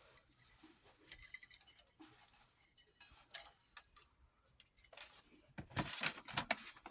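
Small clicks and rustles from hands handling an 8mm film viewer and its film while the film is threaded, with a louder rustle near the end.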